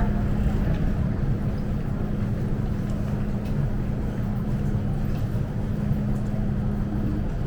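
Hong Kong MTR M-train standing at the platform, its onboard equipment giving a steady electrical hum over a low rumble.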